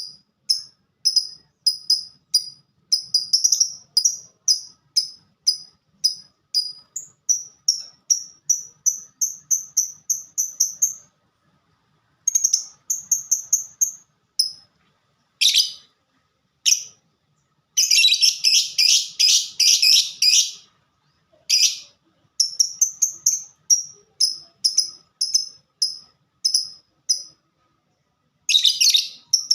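Lovebird singing in long runs of short, high, evenly repeated chirps, two to three a second, the rapid 'ngetik' (typing) song style. A few harsh screeches and a dense burst of chatter break in about two-thirds of the way through.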